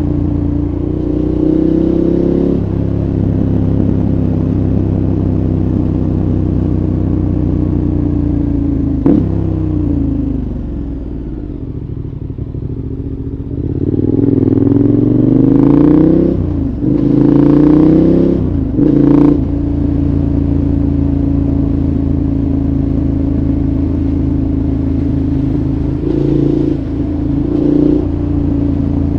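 KTM 1190 Adventure's V-twin with a Giannelli exhaust, heard from onboard: running steadily, then dropping in pitch and level off the throttle for a few seconds, then accelerating with rising pitch through two quick upshifts before settling into a steady cruise with a couple of brief throttle changes near the end.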